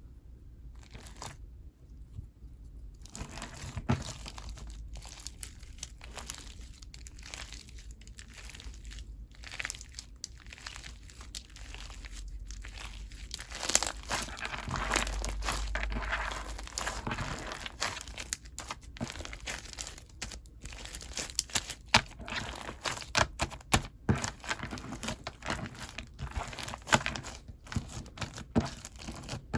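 Soft, fluffy clay slime being squished and pressed by hand, a continuous sticky crackling with many small clicks and pops.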